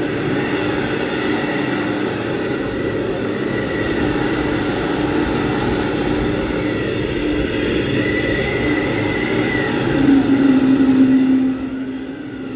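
Howling blizzard wind played as a stage sound effect: a steady rush with whistling tones that rise and fall, swelling louder for a moment about ten seconds in.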